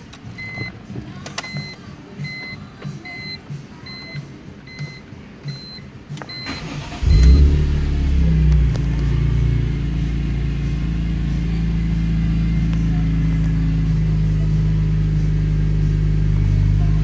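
A car's warning chime beeps about eight times, a little more than once a second. About seven seconds in, the 2004 BMW M3's S54 3.2-litre straight-six with a Borla exhaust starts, flares up briefly and settles into a steady idle.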